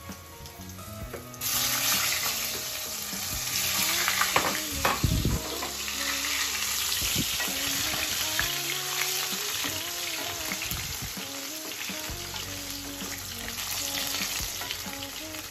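Potato pieces sizzling loudly as they fry in hot oil in a kadai, stirred with a wooden spatula. The sizzle starts suddenly about a second and a half in, as the potatoes go into the oil.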